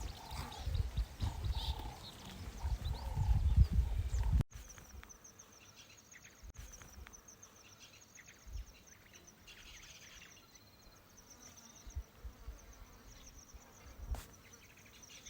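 An animal gives a short call over and over, about once a second, over low wind rumble. About four seconds in, the sound cuts to a steady, high, pulsing insect-like trill with a few faint calls behind it.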